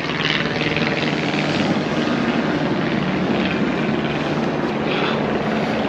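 A steady engine drone with a low, even hum, heard over a wash of outdoor noise.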